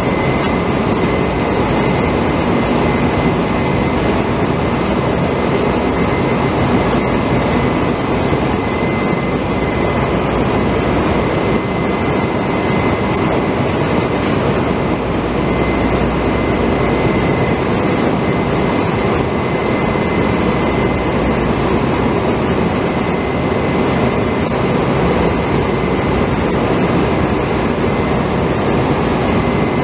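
Steady, loud machinery noise with a constant high whine that does not change.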